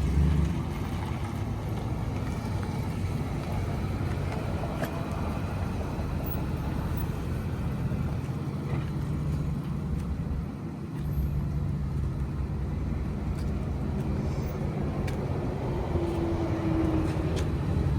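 Motor vehicle engine running steadily, with a brief dip about ten seconds in.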